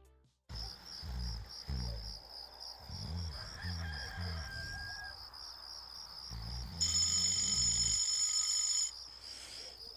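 A smartphone alarm tone sounds for about two seconds near the end and cuts off suddenly, over a steady, rapidly pulsing high chirp and a run of low dull thumps in the first half.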